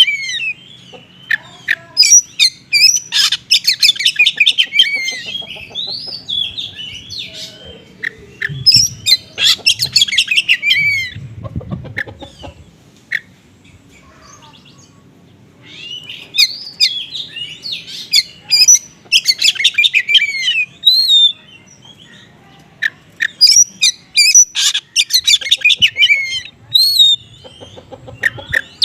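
Oriental magpie-robin singing a fast, varied song of chirps, trills and quick whistled sweeps, packed with mimicked small-bird calls. It sings in bursts of a few seconds, with a pause of about three seconds near the middle.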